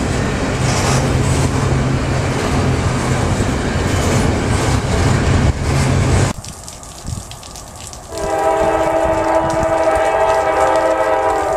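Double-stack container freight train rolling past close by, a loud even rumble of wheels and cars, which cuts off about six seconds in. About two seconds later a locomotive air horn sounds one long steady blast of several tones together, lasting about three and a half seconds.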